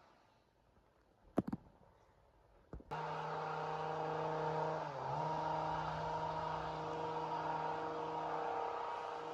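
A chainsaw's two-stroke engine winds down and cuts out. There are a couple of sharp clicks in the lull, then it abruptly starts again about three seconds in and runs at a steady high speed, dipping briefly in pitch about two seconds later.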